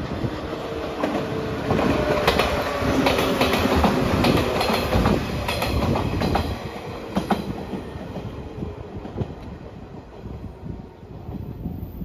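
JR 115 series electric train passing close by, its wheels clacking over rail joints. It is loudest a few seconds in, then fades as the train pulls away.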